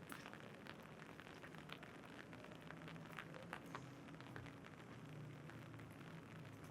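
Faint rain on an umbrella: many small drops ticking irregularly over a soft hiss.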